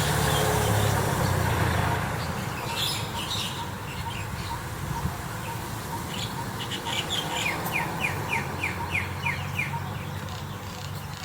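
White-vented mynas calling and chirping, with a quick run of about seven short falling notes in the second half, about three a second. A low hum, loudest in the first two seconds, runs underneath.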